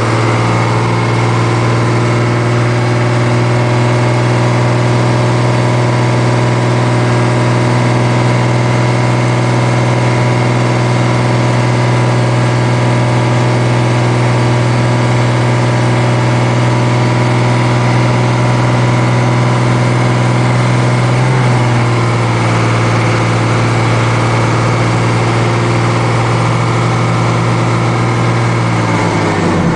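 Ford F800's rebuilt six-cylinder diesel engine running steadily, heard from inside the cab while the truck is driven, its pitch stepping down slightly about two-thirds of the way through.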